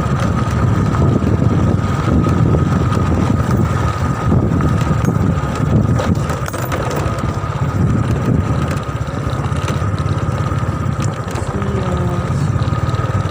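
Motorcycle engine running steadily while being ridden, with a low rumble of engine and road noise.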